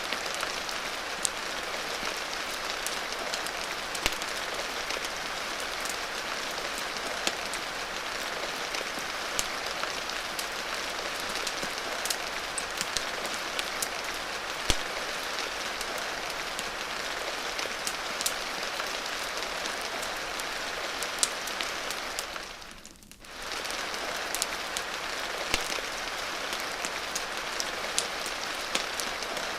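Steady rain hissing, with scattered sharp pops and clicks of a crackling fire over it. The whole sound dips away for about a second, roughly three quarters of the way through.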